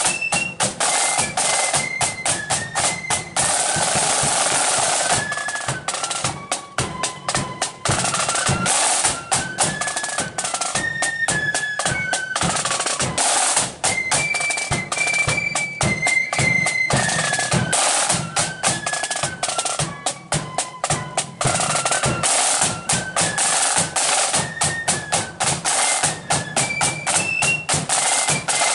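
Marching flute band playing a tune: the flutes carry a stepping melody over rapid, continuous snare drum rolls and drumbeats.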